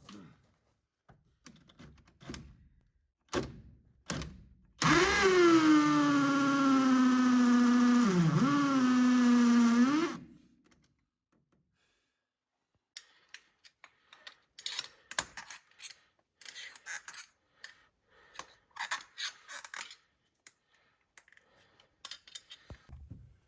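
Power drill run for about five seconds under load: its whine drops in pitch as it bites and sags once more shortly before it stops. A few knocks come before it, and light clicking and rustling of parts being handled follow.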